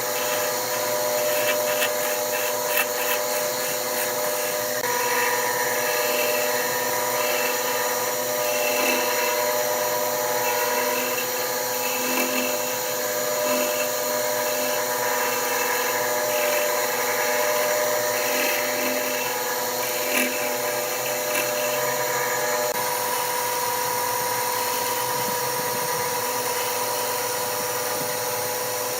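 Wood lathe running steadily with a constant motor whine, while a turning tool scrapes and cuts the spinning wood in uneven bursts.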